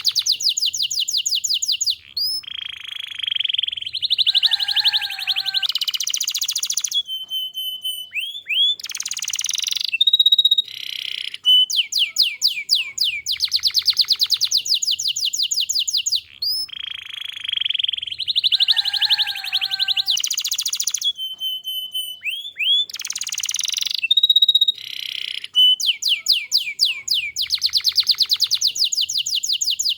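Domestic canary singing continuously and loudly: fast rolling trills of repeated high notes alternating with buzzy chatter and short clear whistles. The same run of phrases comes round again about every fourteen seconds.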